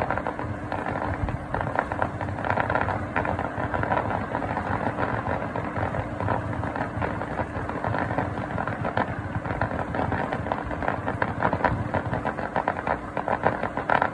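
Fireworks going off in a dense barrage of rapid crackling and popping, which stops abruptly near the end.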